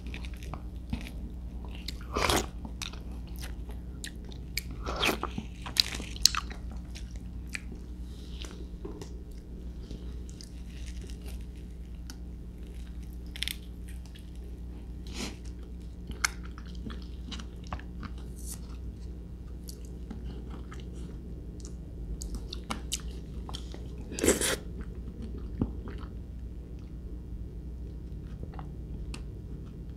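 Close-miked chewing and mouth sounds of star apple flesh being eaten: scattered wet clicks and smacks, with a few louder bites about two, five to six, and twenty-four seconds in.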